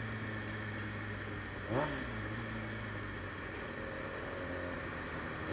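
Motorcycle engine idling steadily, with a brief rising chirp about two seconds in.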